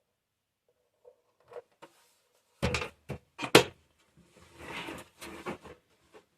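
Parts of a camera bird feeder being handled during assembly: a few sharp knocks and clacks close together, the loudest about three and a half seconds in, followed by a short rustling scrape.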